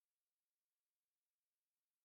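Near silence: the audio track is essentially empty.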